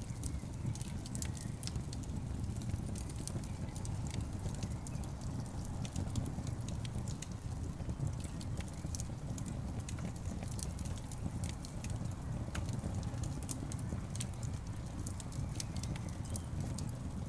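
Wood logs burning in a fireplace: a steady low rumble of the flames with many sharp crackles and pops scattered irregularly throughout.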